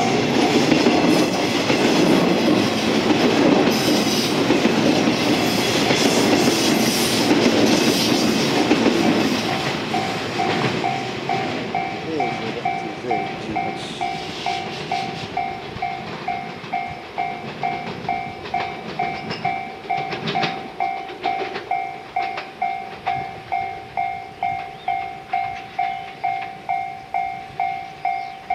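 A train running past close by, with rumbling and wheel clatter, fades out about nine seconds in. Then a Japanese railway level-crossing bell starts ringing, an electronic ding repeating about twice a second, warning of an approaching train.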